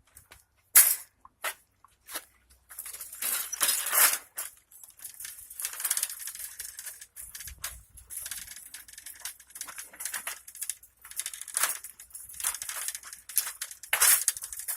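Footsteps crunching on gravelly ground, irregular, with a couple of sharp clicks about a second in.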